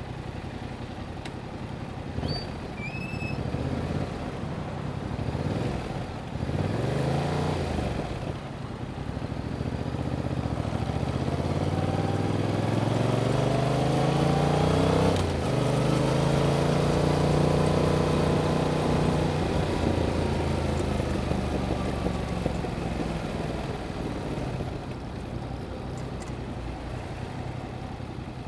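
2021 Yamaha MT-07's parallel-twin engine through its stock exhaust while riding. The engine speed rises and falls briefly, then climbs steadily for several seconds and drops sharply at an upshift about halfway through. It holds steady at cruise, then falls away as the bike slows.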